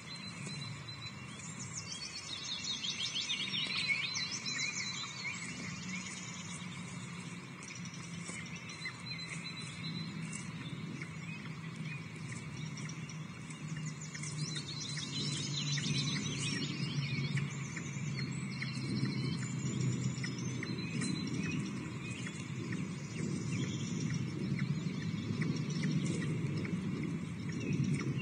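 Wild birds chirping and trilling in high bursts, the busiest about two seconds in and again around the middle, over a low steady rumble.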